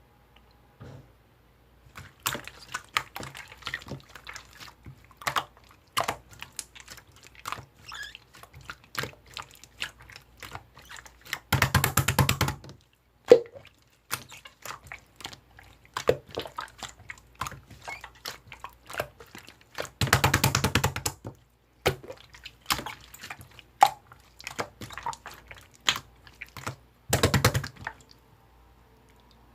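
Slime being squished, poked and stretched by hand: a stream of sticky, wet clicks and pops, with three denser runs of crackling about twelve, twenty and twenty-seven seconds in.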